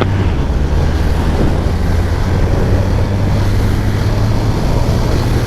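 Motorcycle underway at a steady speed: constant low engine drone under a steady rush of wind noise.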